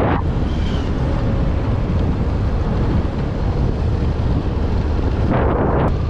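Wind buffeting the microphone on a moving vehicle, a loud steady low rumble with engine and road noise underneath and a few stronger gusts near the end.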